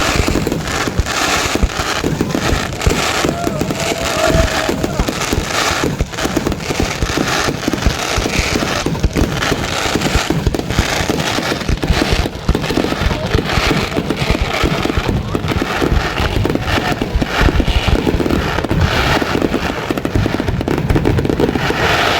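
A dense barrage of fireworks: bangs and crackling come many times a second without a break.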